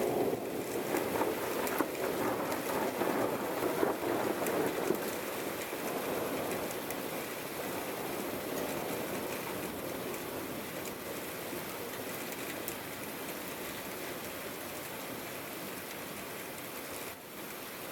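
Steady rain falling, with scattered drops pattering on a surface. It is heavier for the first few seconds, then eases to a more even rain.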